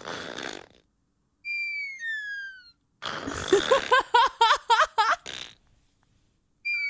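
A sleeping porcupine snoring. It opens with a breathy hiss, then gives high whistle-like squeaks that fall in pitch. In the middle comes a run of quick, rising squeaky notes, about five a second, over breathy noise, and near the end one more falling whistle.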